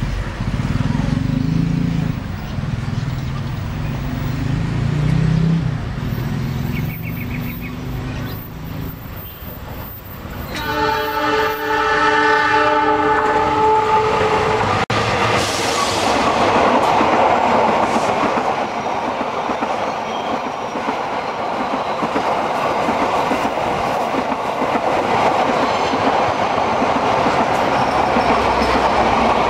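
A GE CC206 diesel-electric locomotive's horn sounds one long chord of about three and a half seconds, starting about ten seconds in: a semboyan 35 horn signal. Before it there is a low engine rumble. After it comes the loud rush and clatter of the locomotive and passenger carriages passing close by.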